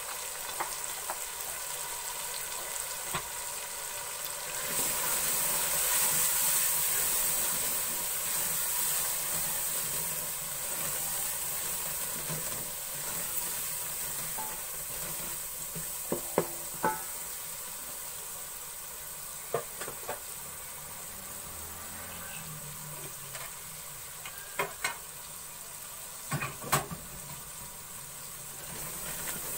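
Spice masala of onion, tomato and freshly added red chili powder sizzling in hot oil in a metal pot while it is stirred with a wooden spoon. The sizzle grows louder about five seconds in and then eases; in the second half a few short knocks come, as the spoon strikes the pot.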